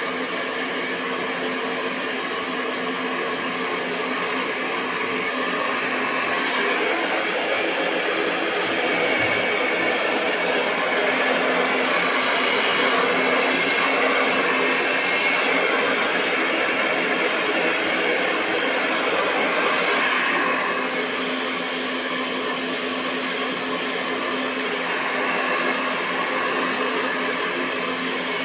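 Hair dryer running continuously: a steady rush of blown air over a low motor hum, swelling slightly in the middle and easing back a little near two-thirds of the way through.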